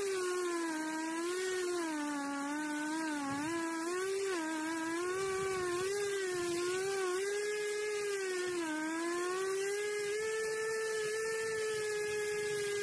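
Chainsaw running at high speed while cutting firewood. Its steady whine sags in pitch again and again as the chain bites into the wood, then picks back up.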